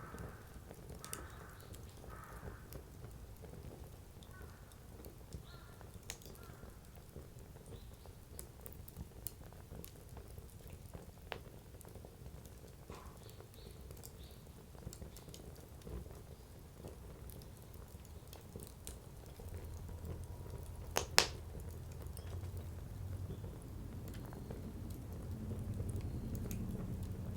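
Firewood burning in a fire pit, crackling with scattered small pops and one sharp, loud pop about two-thirds of the way through. A low rumble rises in the second half.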